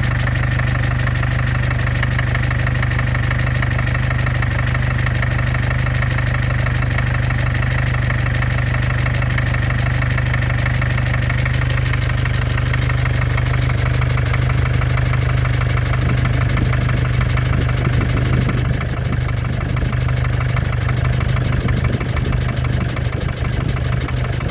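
Mercedes OM651 four-cylinder diesel idling steadily with a persistent rhythmic knock. The knock remains after the injectors and hydraulic lifters were replaced, and the owner doubts it is the crankshaft.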